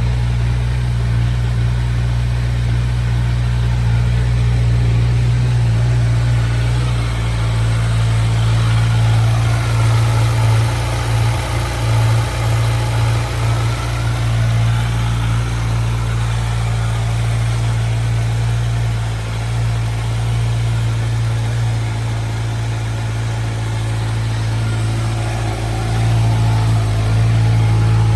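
Kawasaki Versys 1000 GT's inline-four engine idling steadily, with a slight wavering in the middle and a small rise in level near the end.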